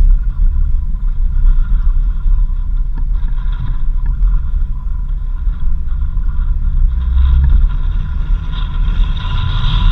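Vehicle driving on a dirt road: a steady low rumble from the engine and tyres, with a higher hiss that gets louder near the end.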